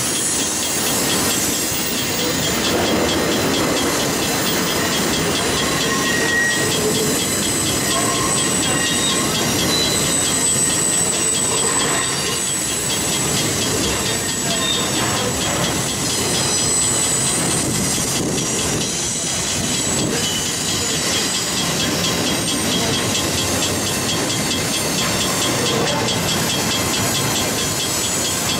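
Double-stack intermodal well cars of a freight train rolling past: a steady rumble and clatter of steel wheels on the rails, with brief high squeals from the wheels.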